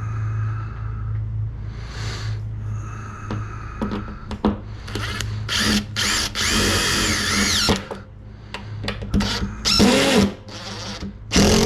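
Cordless drill driving screws into soft pine in several short trigger bursts, its motor speeding up and slowing down, with the longest run in the middle. A steady low hum sits underneath throughout.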